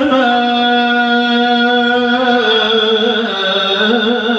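A man's voice reciting the Quran in the long melodic tajwid style, holding one drawn-out note at a steady pitch, with wavering ornaments in the middle and again near the end.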